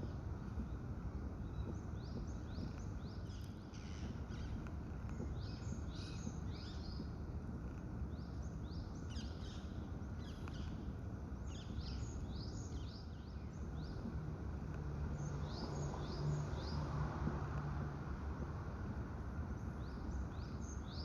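Birds calling in clusters of short, high chirps over a steady background rush. A low hum comes in about three-quarters of the way through and stops after a few seconds.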